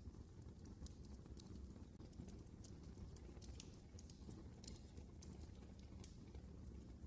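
Faint crackling of a wood fire in a fireplace: irregular sharp pops and snaps over a low, steady rumble.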